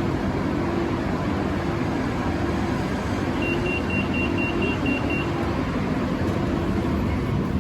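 BTS Skytrain car running between stations: a steady rumble with a low hum. About halfway through comes a quick run of about eight short high-pitched beeps.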